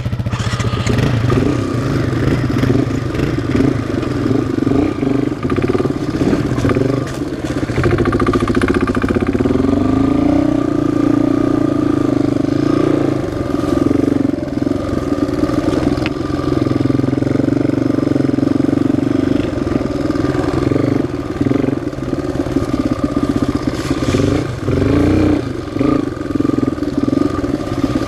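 Yamaha single-cylinder four-stroke off-road engine running under throttle, its revs rising and falling without letting up.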